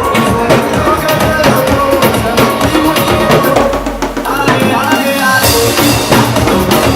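Ethnic drum ensemble playing a loud, fast, steady rhythm over a melody line. The deepest drums drop out for about a second around the middle, then the full beat comes back.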